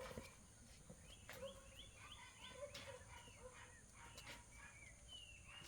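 Faint bird chirping: a run of short, quick chirps, with one longer falling note near the end.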